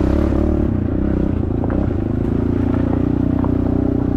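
Pit bike's small four-stroke engine running under way, its pitch wavering up and down for the first couple of seconds, then holding steady, with a few light ticks over it.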